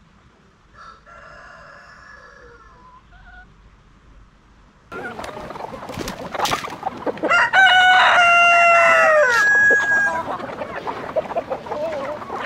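A rooster crowing once, loud and long, starting about seven seconds in and dropping in pitch at the end. Chickens cluck around it, faintly for the first few seconds and then much louder from about five seconds in.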